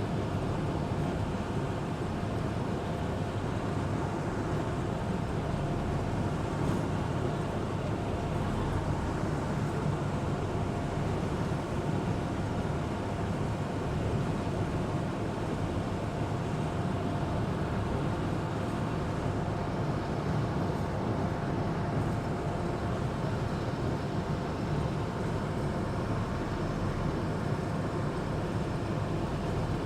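Engine of an amphibious Duck tour vehicle running steadily while it cruises on the river, a continuous drone with a faint steady whine in it.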